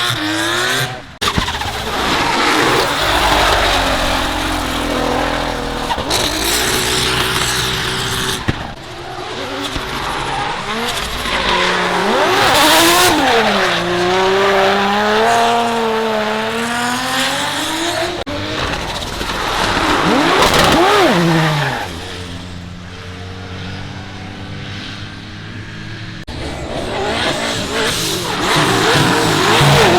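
Drift cars at high revs on a wet track, passing one after another. The engine pitch rises and falls sharply as the throttle is worked through the slides, over a loud hiss of tyre noise.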